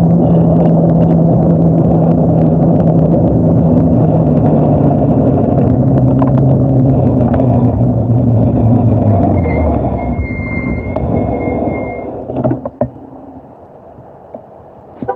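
Steady road rumble of a moving vehicle, with a low hum that slowly falls in pitch. It fades away about twelve seconds in, leaving a quieter background and a few sharp clicks.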